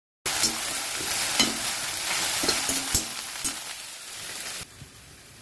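Okra sizzling in hot oil in an iron kadai as it is stir-fried with a metal ladle, with scattered clicks and scrapes of the ladle against the pan. The sizzle starts suddenly just after the start and drops to a much fainter hiss about four and a half seconds in.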